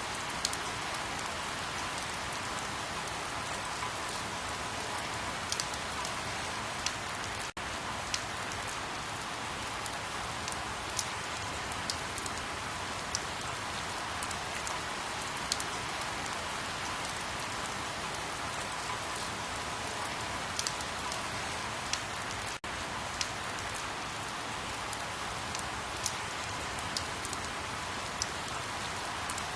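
Steady rain falling on a surface, an even hiss with scattered sharp drop ticks. It cuts out for an instant twice.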